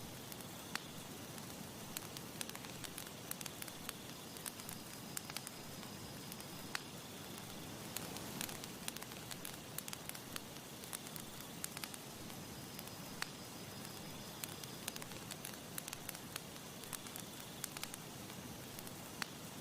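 Campfire burning with a steady hiss and frequent sharp crackles and pops, swelling slightly about eight seconds in.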